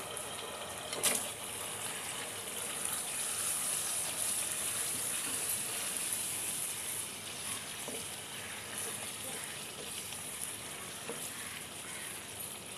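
Marinated chicken pieces sizzling in a pot of hot oil-and-spice masala as they are stirred in with a wooden spatula, giving a steady hiss. There is a sharp knock about a second in and a few faint ticks later on.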